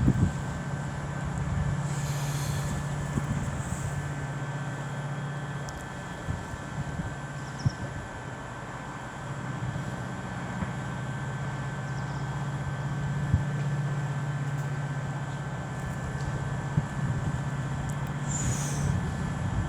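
DRS Class 68 diesel-electric locomotive's Caterpillar V16 engine running, a steady low drone, as it hauls a freight train. A few sharp clicks are heard over the drone.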